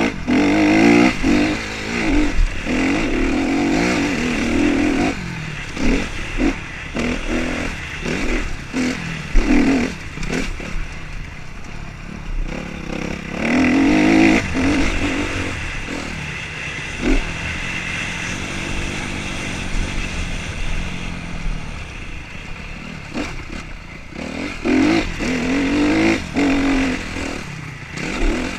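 Motocross dirt-bike engines revving up and down through the gears, coming in three loud spells, with scattered sharp knocks in between.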